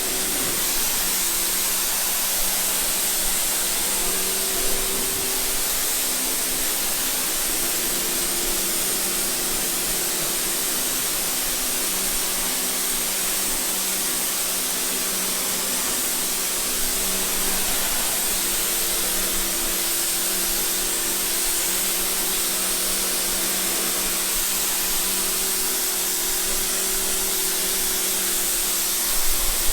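Water spraying in a steady, unbroken hiss while a bird enclosure is washed down, with a low hum underneath that shifts slightly in pitch.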